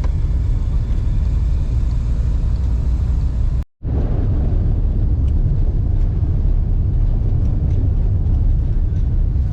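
Steady low rumble of a car on the move, with a momentary drop to silence a few seconds in.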